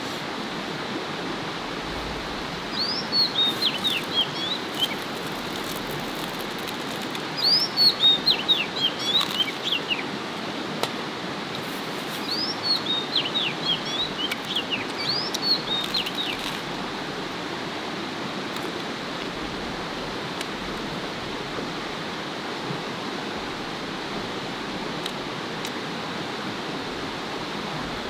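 A songbird singing three phrases, each a quick run of high chirps sliding downward, over a steady rush of flowing water.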